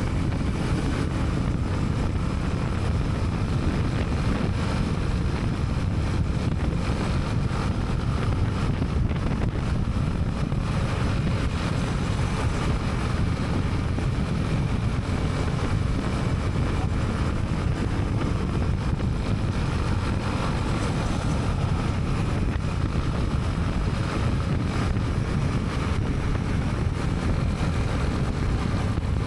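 Honda CB300R's single-cylinder engine running steadily while riding, with wind rushing over the helmet-mounted microphone.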